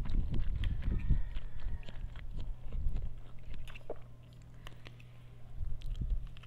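Close-miked chewing of a mouthful of soft noodles, with wet mouth clicks and smacks. The chewing slows and quietens about four seconds in, then picks up again briefly near the end, over a faint steady low hum.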